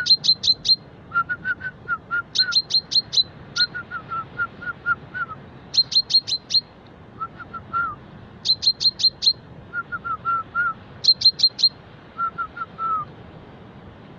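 Common chaffinch singing: a run of short chirps followed by a quick volley of four or five sharp, high notes, the phrase repeated about every two and a half to three seconds.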